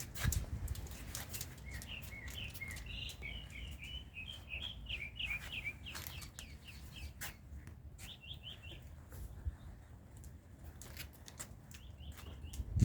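A small bird chirping in quick runs of short high notes, pausing and starting again twice, over the low rumble of wind on the microphone and scattered light clicks.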